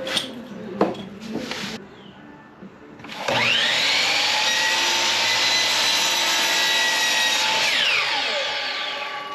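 Electric power saw cutting a plywood strip: a few knocks as the piece is handled, then the saw spins up about three seconds in, runs steadily for about five seconds, and winds down near the end.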